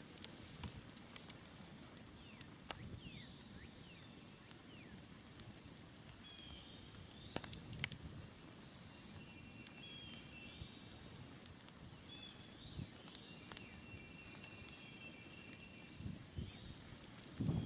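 Smoldering wood campfire crackling, with scattered sharp pops, two of them loud a little past the middle. Birds chirp and call over it, with a steady trilling call through the second half.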